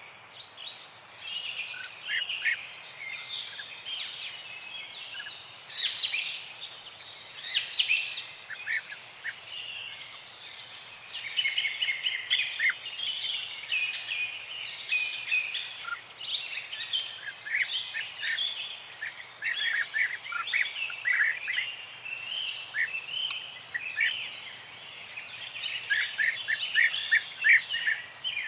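Many small birds chirping and singing at once: a dense morning chorus of overlapping short, high calls and trills that never lets up.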